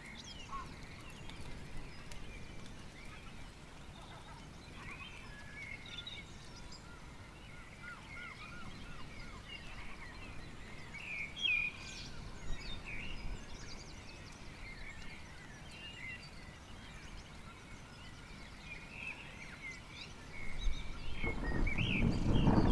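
Birds chirping and calling over a faint steady background, then about twenty seconds in a deep rumble of thunder rolls in and grows loud.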